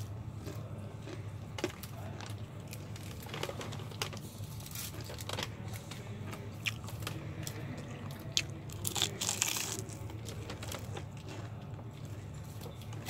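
Close-up chewing and crunching of KFC fried chicken, with scattered crisp crackles and a louder crackly burst about nine seconds in, over a steady low hum.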